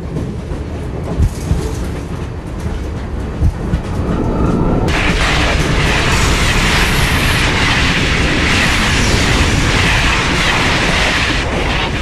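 A moving train: a low rumble with a few knocks from the wheels on the rails. About five seconds in, a loud rushing noise comes in abruptly and carries on.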